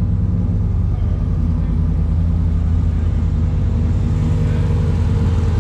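Car engine running steadily, a deep low drone with an even pulse.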